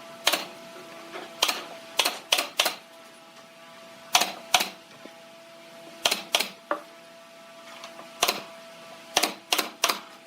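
A series of sharp, irregular clicks and knocks, about fourteen, some in quick pairs or triples, over a faint steady hum.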